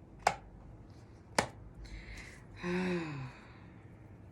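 Two sharp snaps about a second apart, then a short hiss and a brief hum that falls in pitch.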